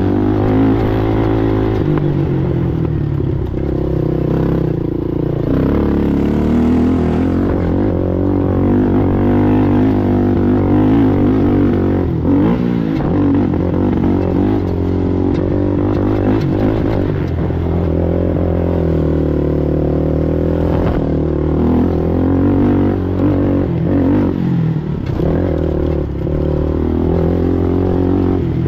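ATV engine running hard while racing, its pitch rising and falling over and over as the throttle is worked.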